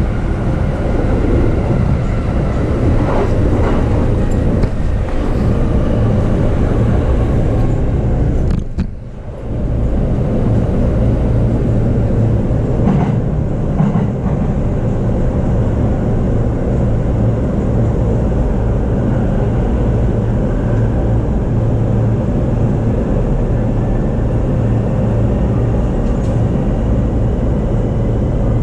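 JR East E233-series electric commuter train running along the track, heard from inside the car: a steady rumble of wheels on rail. The noise drops briefly about nine seconds in.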